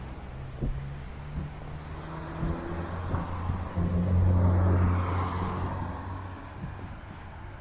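A motor vehicle's engine passing on the road, its low hum growing louder to a peak about four seconds in, then fading away.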